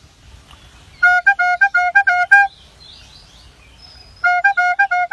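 A small blown horn tooting the old-style ice-cream seller's call: a quick run of short notes alternating between two close pitches, played twice. Faint bird chirps come in between.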